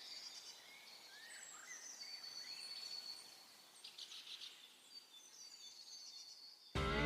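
Birds chirping and whistling, several short calls and sliding notes, faint over quiet outdoor background. Loud guitar music cuts in abruptly near the end.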